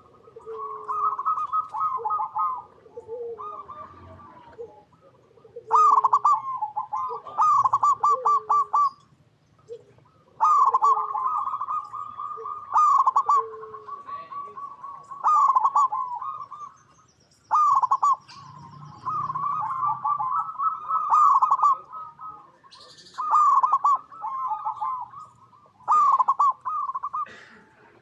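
Zebra dove (perkutut) song: phrases of rapid, staccato cooing notes, repeated every few seconds with short pauses between them. Softer, lower coos sound underneath.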